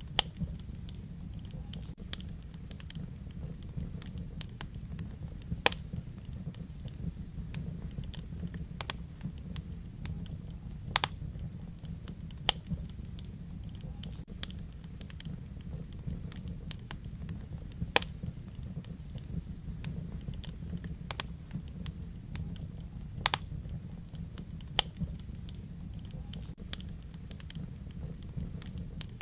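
Wood fire crackling in a fireplace: a steady low rumble of the flames with sharp pops and snaps every second or two, a few louder than the rest.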